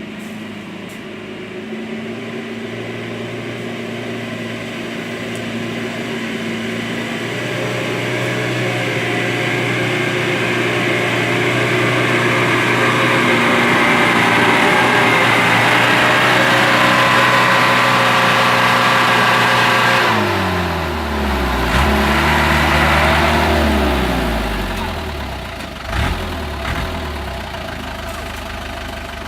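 Palm-oil truck's engine running hard under load and growing louder. About two-thirds through the revs fall away and it settles to a lower, steady run, with a couple of short knocks near the end.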